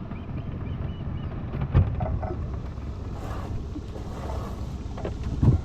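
Small boat's motor running steadily under way, with wind buffeting the microphone. There are two sharp knocks on the boat, about two seconds in and again near the end.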